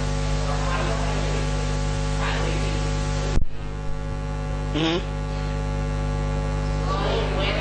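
Steady electrical mains hum and static from the sound system, with faint voices under it and a sharp crackle with a brief dropout about three and a half seconds in.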